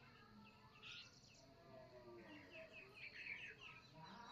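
Several birds chirping and calling faintly, a quick flurry of chirps about two seconds in.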